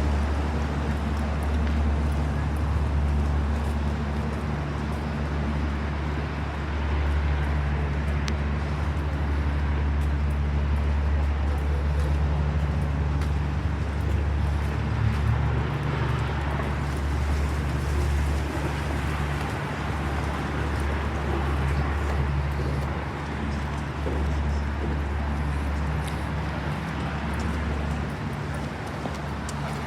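A steady, low engine drone with a constant hum, over outdoor urban background noise.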